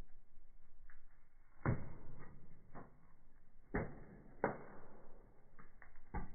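Firewood burning in a fireplace, crackling with irregular sharp pops. The loudest pops come about one and a half seconds in, near four seconds and just past four, with fainter ticks between.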